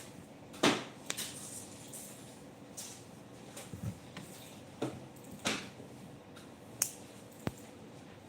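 Scattered short clicks and knocks, about seven of them at uneven intervals, the loudest about half a second in, over a steady low background hum.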